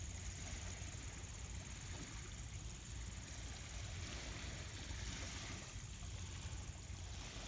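Sea waves washing on a shore as a steady low rumble, with a constant high-pitched insect trill over it.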